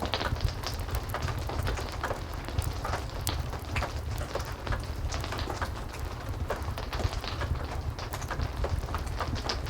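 Heavy rain falling steadily with a low rumble underneath, mixed with a fireplace's wood fire crackling in irregular sharp pops.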